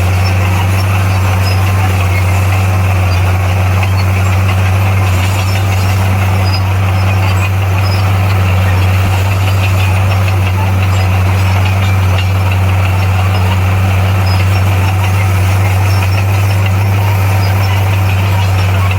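Komatsu bulldozer's diesel engine running steadily with a loud, even low drone that holds one pitch throughout.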